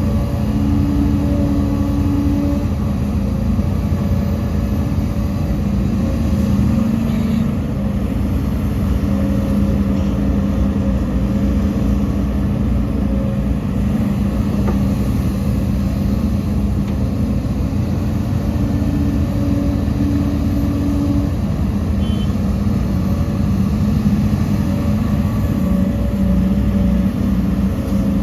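Heavy diesel engine of earthmoving machinery running steadily, its tone rising and falling slightly as the load changes.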